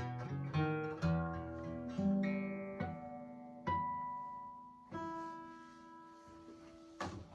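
Acoustic guitar playing the closing notes of a song unaccompanied: single plucked notes and chords about a second apart, each ringing out, the whole fading away. A sharp click comes near the end.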